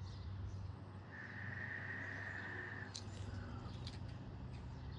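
A bird gives one long, steady high-pitched call lasting nearly two seconds, over a low steady hum, with a sharp click just after the call ends.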